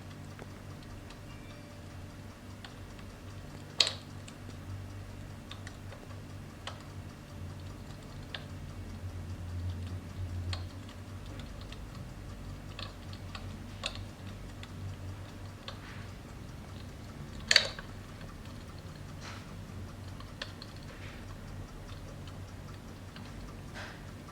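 Crackling-fire sound from an electric fireplace's flame effect: sparse small clicks and snaps over a steady low hum, with two louder pops, one about four seconds in and one past the middle.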